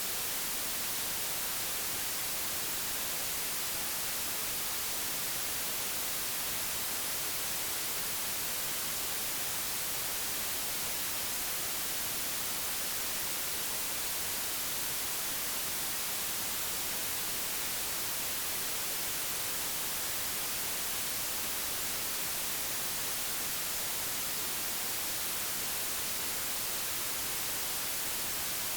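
Digitally generated white noise: a constant, even hiss with no change in level or texture, strongest in the high frequencies.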